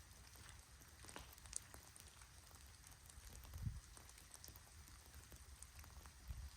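Faint rain: scattered light drips and ticks over a low rumble, with a soft low thump about three and a half seconds in and another near the end.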